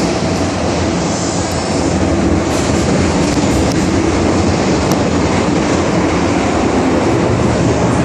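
MTR metro train running through the tunnel between stations, heard from inside the car: a steady loud rumble of wheels and motors on the rails, rising a little about two seconds in.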